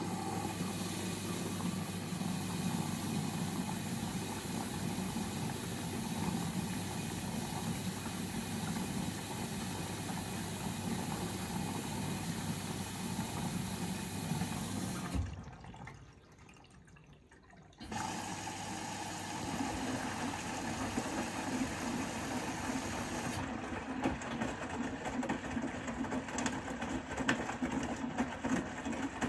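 Bosch Serie 4 front-loading washing machine draining, its pump running with a steady low hum over rushing water. The pump cuts out about halfway through. After a short lull of about two seconds the machine starts running again with a different, rougher steady sound.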